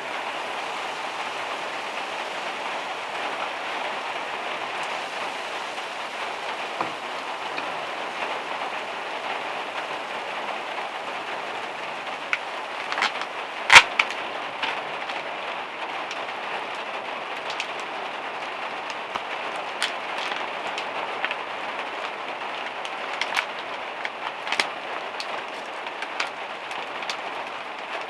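Rain falling on a van's metal roof: a steady hiss of rain, with scattered sharp drip taps from about halfway in and one much louder tap just before the middle.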